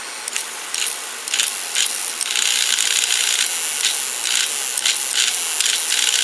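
Lionel 6466 whistle tender on its test track: a few sharp clicks, then about two seconds in its small whistle motor starts and runs with a steady airy whir, with no whistle tone yet.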